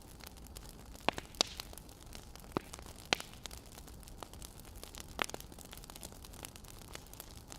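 Wood fire crackling: a steady hiss broken by irregular sharp pops, the loudest a little after one, three and five seconds in.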